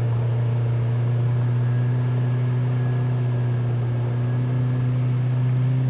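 Jeep Wrangler YJ engine running at steady revs while driving through mud: a constant drone whose pitch holds level.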